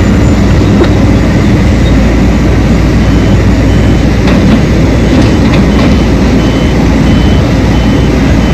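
Large diesel mining machinery at a coal loading operation running loudly and steadily. From about three seconds in, a reversing alarm beeps at an even pace.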